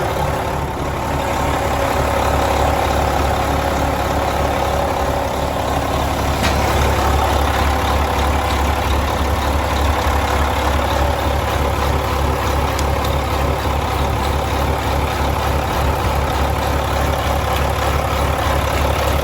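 2012 Volvo A25F articulated hauler's six-cylinder diesel engine idling steadily.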